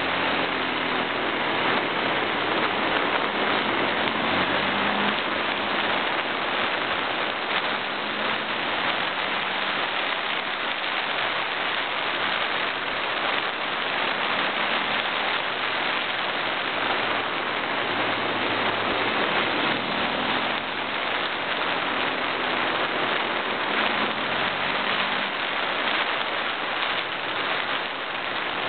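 Steady rush of wind buffeting a camera microphone taped to a moving motorbike, with the bike's engine faintly underneath, its pitch shifting now and then.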